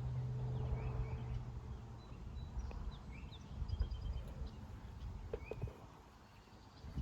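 Small birds chirping and trilling repeatedly, over a low rumble with a steady low hum for about the first two seconds.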